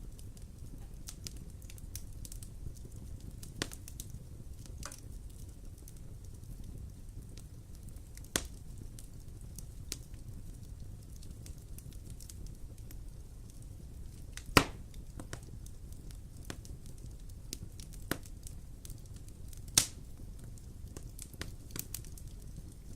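Wood fire burning in a fireplace: a steady low rumble with scattered crackles and sharp pops. Two pops stand out as the loudest, one past the middle and one near the end.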